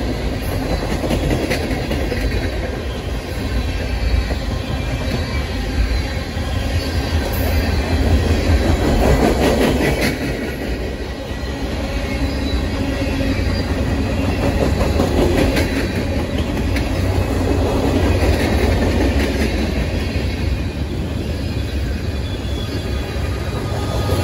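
Freight train's cars rolling past at speed: a steady heavy rumble with irregular clacks of wheels over the rails and a faint high wheel squeal.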